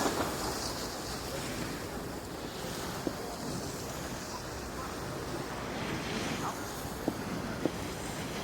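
Steady rushing noise of wind on the microphone, with a few faint clicks about three seconds in and twice near the end.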